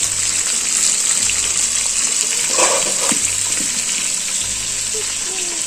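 Potatoes frying in hot mustard oil in a kadai, a steady sizzle.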